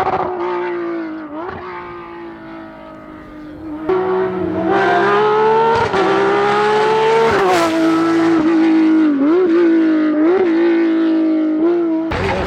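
Racing car engines at full throttle: one fades as the car pulls away, then about four seconds in another comes in abruptly and revs up, its pitch rising and then dropping sharply at a gear change, with two shorter dips after it.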